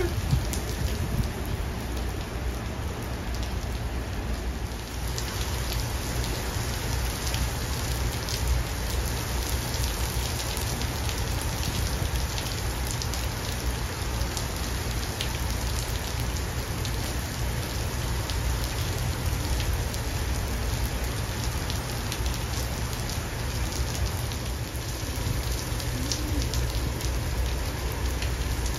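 Rain falling steadily on wet pavement, an even hiss full of tiny ticks from individual drops, over a steady low rumble.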